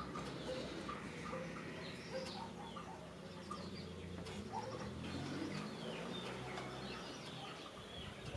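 Birds chirping: many short chirps and calls scattered throughout, with a faint low hum underneath for a few seconds in the middle.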